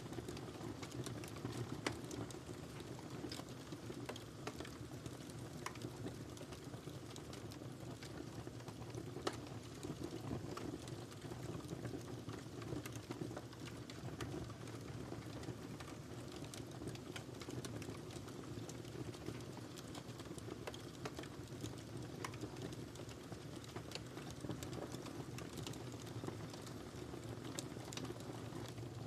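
Wood fire crackling steadily: a low rumble of burning under many small, irregular pops, with a couple of louder snaps about two seconds and nine seconds in.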